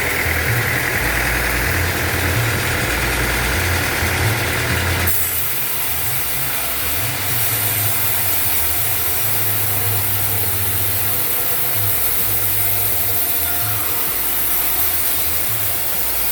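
Sawmill machinery running steadily: a low engine-like drone with a hiss over it, the sound changing abruptly about five seconds in.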